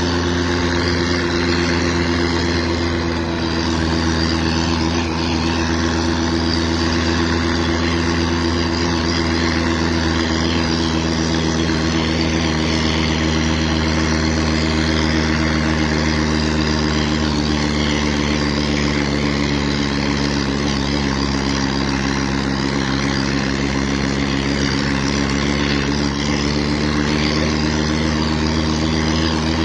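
Tractor engine running steadily at a constant speed, a deep, even drone with a slight dip in pitch a little past the middle.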